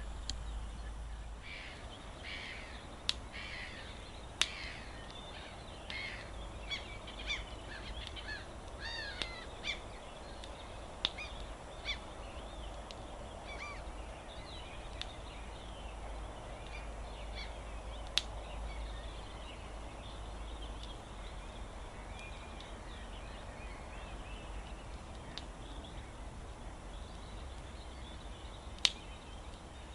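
Many birds singing and calling in short chirps, busiest in the first half, with a few sharp single pops from a crackling wood campfire.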